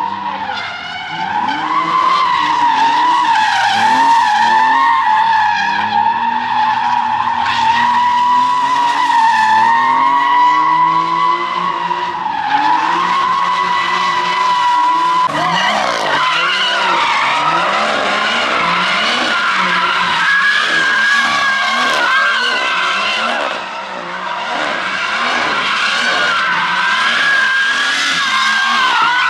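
Car tyres squealing without a break as a car skids or drifts, the squeal wavering in pitch, while its engine revs up and down underneath. The squeal dips briefly about 24 seconds in.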